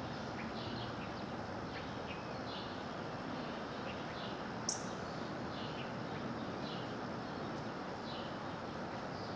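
Small birds chirping, short faint calls repeating every half second or so over a steady background hiss, with one sharper, higher chirp about halfway through.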